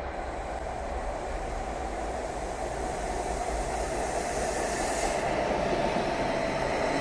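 An ODEG Stadler KISS double-deck electric train pulls into an underground station platform. Its steady rolling rumble grows slowly louder as it comes alongside, with a short high hiss about five seconds in.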